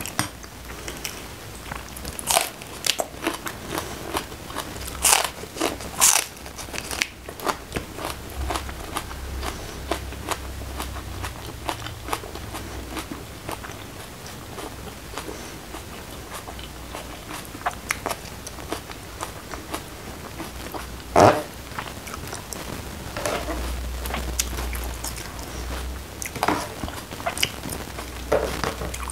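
Close-miked chewing of a mouthful of mushroom and rice, with wet mouth noises and irregular sharp smacks and clicks that come and go.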